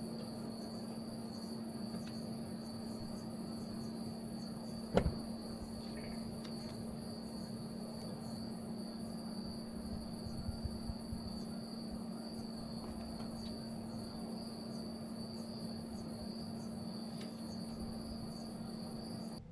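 Insects trilling steadily, with a constant low hum underneath and a single sharp knock about five seconds in.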